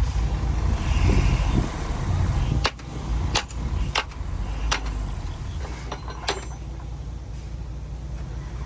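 Heavy diesel earthmoving machinery running with a steady low rumble that drops in level a little under three seconds in. Over the next few seconds come about five sharp, separate knocks.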